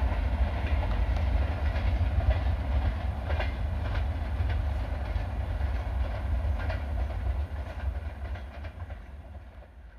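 Passing express train receding down the track: a low rumble with a few sharp wheel clicks over the rail joints, fading away steadily toward the end.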